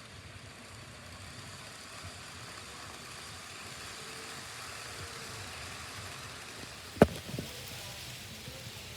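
N scale model trains running on the layout's track, a steady whirring rumble of small motors and wheels that grows slightly louder, with a sharp click about seven seconds in and a smaller one just after.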